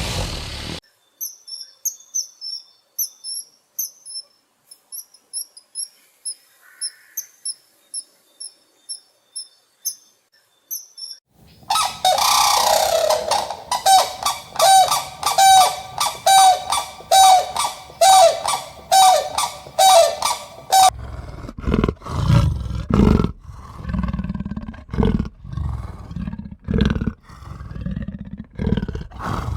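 A run of animal calls. Quick, high bird chirps come first; after about eleven seconds they give way to a louder call repeated about twice a second, and near the end to deep, pulsing calls.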